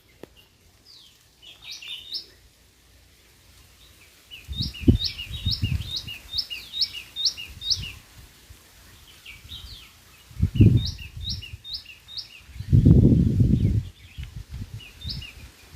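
Songbirds calling in quick runs of short, sharply hooked chirps, several to a second, repeated in bouts. Heavy low rumbles break in a few times, the longest and loudest near the end.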